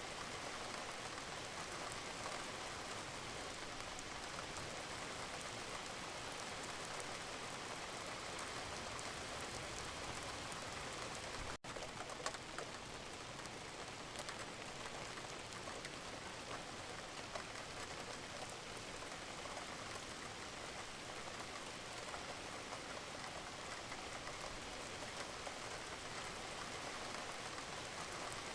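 Steady rain falling, with individual drops ticking on a surface over the even hiss. About halfway through the sound drops out for an instant, as at a loop joint.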